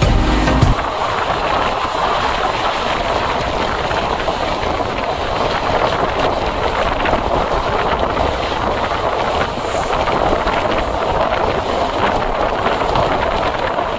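Passenger train running along the track: a steady noise of wheels rolling on rails.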